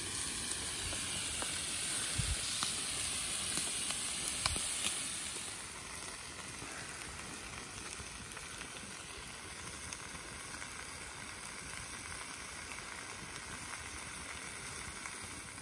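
Chicken and vegetables sizzling in a wok over campfire embers, a steady frying hiss with a few small ticks early on. The sizzle drops quieter about five and a half seconds in and carries on evenly.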